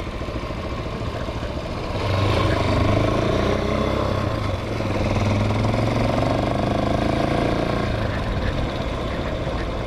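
Hawk 250 motorcycle's single-cylinder engine running under way, pulling harder about two seconds in with its pitch wavering slightly, then easing off near the end.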